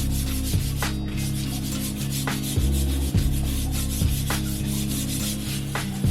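Repeated rubbing or scrubbing strokes, a dense hissing scrape with occasional sharper strokes, over lo-fi background music.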